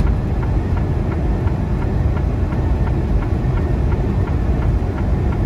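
Semi truck cab at highway speed: a steady low drone of the diesel engine and road noise, with faint, evenly spaced ticks a few times a second.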